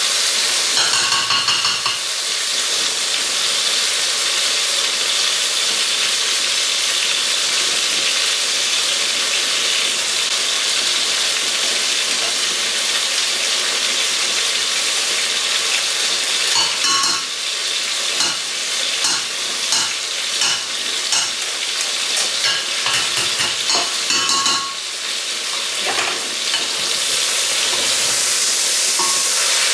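Diced chicken and grated garlic sizzling as they fry in oil in a stainless steel pot. A wooden spoon stirs the pieces, knocking against the pot with a run of clicks past the halfway point.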